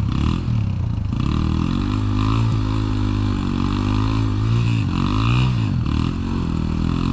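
Dirt bike engine running on a trail ride, its revs repeatedly dropping and climbing again as the throttle is rolled off and back on. It cuts off abruptly near the end.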